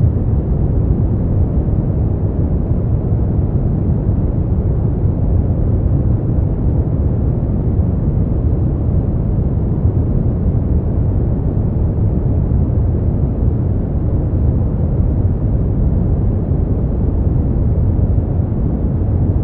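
Brown noise: a steady, deep rumbling hiss, strongest in the bass and dull in the treble, unchanging throughout.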